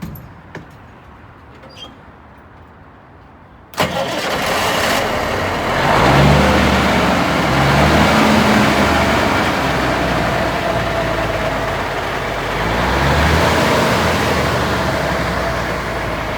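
1980 International crane truck's Cummins 350 diesel engine starting up about four seconds in after a few faint clicks, then revved up twice and settling back to idle.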